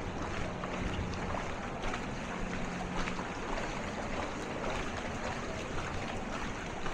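Steady rush and splash of floodwater with a low motor hum underneath, as a vehicle moves through the flood.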